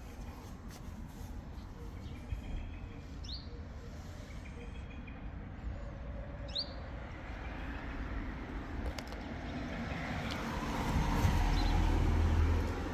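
A bird gives a short rising chirp twice, about three seconds apart, over steady outdoor background noise. Toward the end a low rumble swells up, becomes the loudest sound, then drops away.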